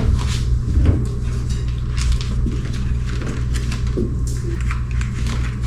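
Furnace air filter being pulled out of its return-air grille: its cardboard frame scrapes and rustles against the housing, with irregular clicks and knocks over a steady low hum.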